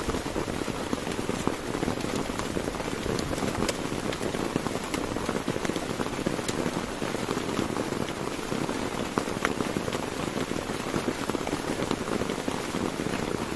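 Heavy rain falling steadily, with sharp individual drop strikes scattered through it.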